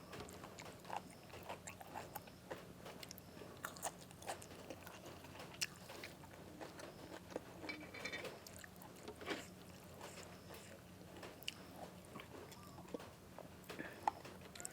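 A person chewing and biting crunchy food close to the microphone: scattered short crunches and mouth clicks, over a faint steady hum.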